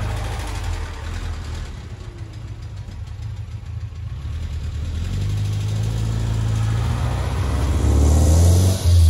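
1969 Barris Mini T's air-cooled Volkswagen engine idling, then revving up over the second half, its pitch climbing to a peak near the end, with a short dip and a quick blip at the close.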